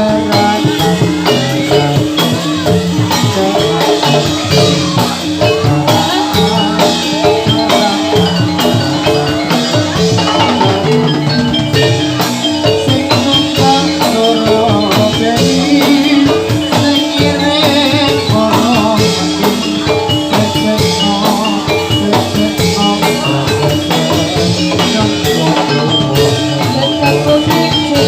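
Jathilan gamelan music playing loud and continuous: metallophones strike a repeating melody over steady percussion.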